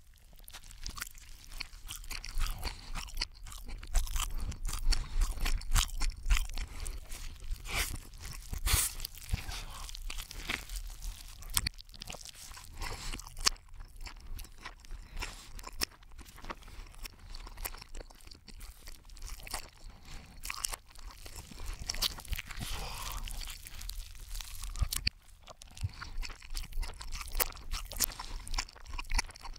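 Close-miked ASMR chewing and biting on a triple cheeseburger, played backwards: a dense run of short crunchy clicks and crackles.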